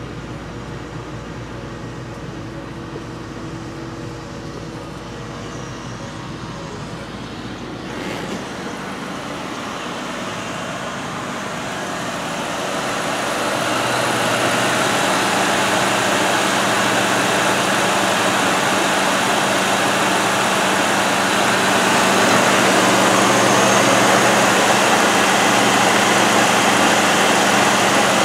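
Ford 4.6-litre V8 idling steadily. At first it is heard muffled from inside the cabin as a low hum. From about halfway on it grows louder and fuller, with a steady hiss over the hum, as it is heard with the hood open.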